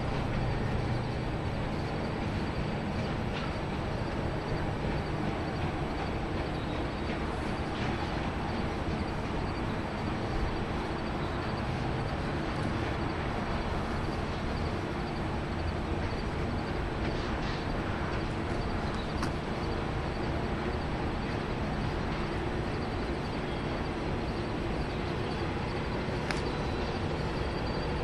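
Freight train of enclosed autorack cars rolling by: a steady rumble of wheels on rail, with a few faint, short, high squeaks here and there.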